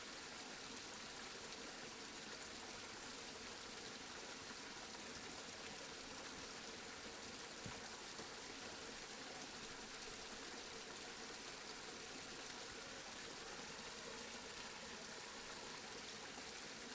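Steady rain falling, an even hiss with no change in level, with one faint tick about halfway through.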